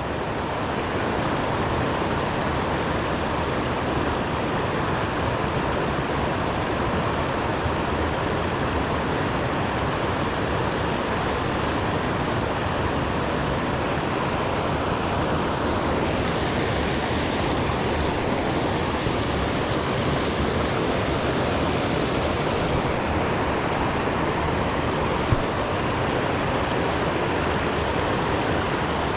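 Steady rush of flowing river water, an even noise that doesn't change, with one brief click a few seconds before the end.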